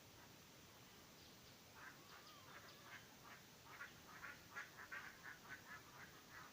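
Faint poultry calling: a quick run of short calls, a few a second, beginning about two seconds in and coming faster toward the end.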